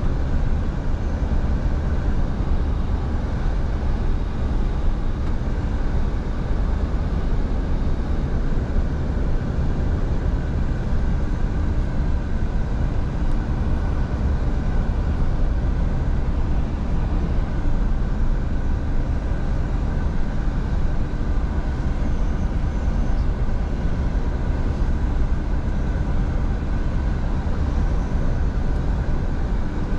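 Scania V8 truck driving at a steady speed: an even low engine drone mixed with road noise, unchanging throughout.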